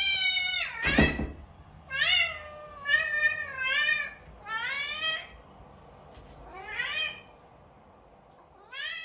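A cat meowing about seven times, each meow a short call that bends in pitch.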